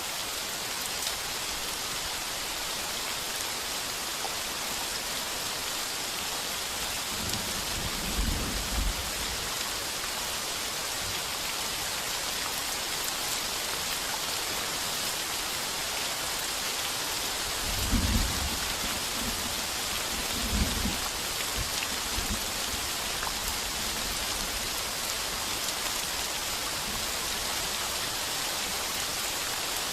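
Heavy rain pounding steadily on a tin roof, with short low thunder rumbles about a third of the way in and twice more just past the middle, the first of those the loudest.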